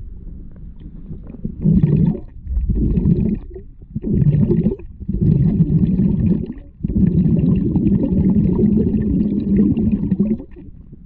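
Muffled water gurgling and sloshing in bursts: four short ones, then one long one of about three and a half seconds that stops near the end.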